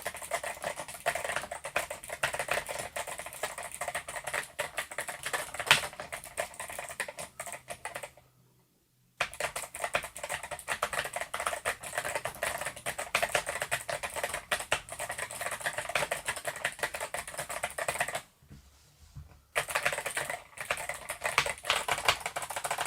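Fast typing on the 8BitDo Retro Mechanical Keyboard (M Edition) with its stock Kailh Box White V2 switches, a dense run of super clicky keystrokes, broken by two short pauses about 8 and 18 seconds in.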